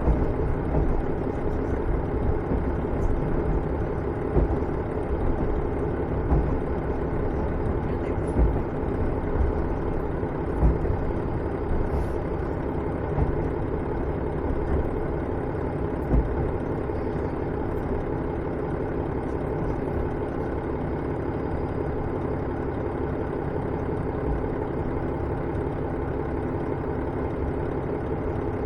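Cabin sound of a KiHa 110-series diesel railcar coming to a stop at a station. Irregular low knocks from the running gear fade over the first half, and about halfway through it settles into a steady diesel engine idle.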